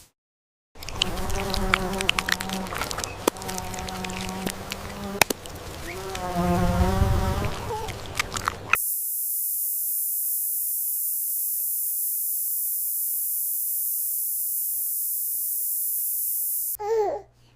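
A fly buzzing, a humming drone that stops and starts and wavers in pitch for a couple of seconds. About nine seconds in it gives way to a steady high hiss that lasts about eight seconds and then cuts off.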